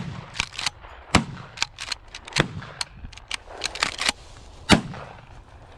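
A rapid volley of shotgun shots from several waterfowl hunters firing at geese: a dozen or more sharp cracks, the loudest at about one, two and a half and near five seconds in, with quieter shots between them.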